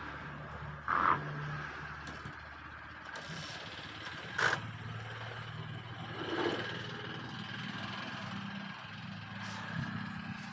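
An engine running steadily with a low hum, with three short sharp sounds like knocks or clanks spread through it.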